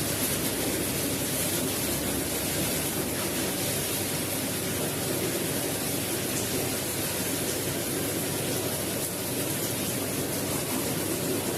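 Carpet-cleaning equipment running with a loud, steady rushing hiss.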